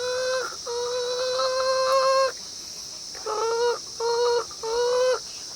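A man imitating a hen's egg-laying cackle with his voice: two long held calls, then three short ones in quick succession.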